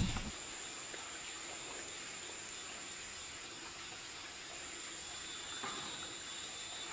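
Steady high-pitched insect drone over an even background hiss.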